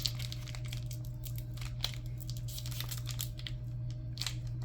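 Foil trading-card booster pack wrapper crinkling with sharp crackles as it is handled and opened. A steady low electrical hum runs underneath.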